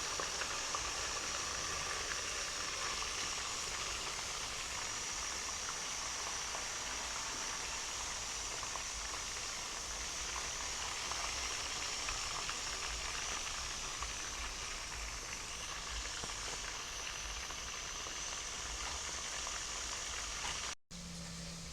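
Seasoned chicken pieces sizzling steadily as they fry and brown. The sound cuts out briefly about a second before the end.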